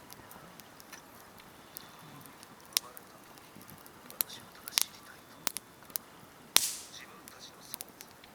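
Campfire wood crackling, with scattered sharp pops. One louder pop late on trails a brief hiss.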